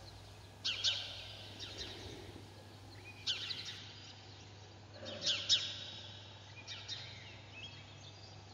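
A songbird calling in short phrases of quick, high, falling notes, repeated every couple of seconds over a faint steady hum.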